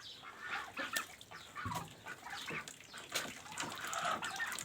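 Farmyard poultry clucking and calling in short scattered notes, with some water splashing as the birds drink and bathe in a bucket.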